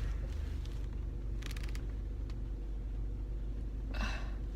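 Car engine idling, heard from inside the cabin as a steady low hum. A few quick clicks come about one and a half seconds in, and a short breathy noise comes near the end.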